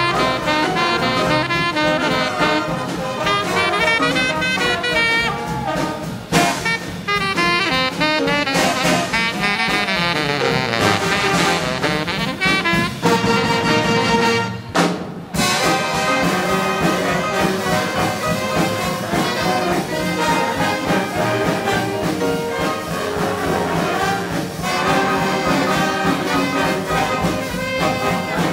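Live big band playing hot swing jazz, with trumpets, trombones and saxophones out front over a steady rhythm section. The band breaks off for a moment a little past halfway, then comes straight back in.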